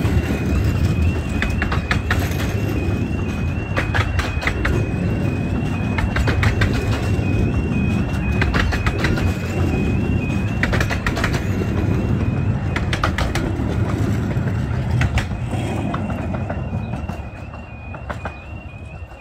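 A 15-inch-gauge miniature train's carriages rolling past with a low rumble, their wheels clicking in quick groups every couple of seconds over rail joints, fading about three-quarters of the way through as the train moves away. Over it the level crossing's high-pitched alarm repeats a fast two-note pattern throughout.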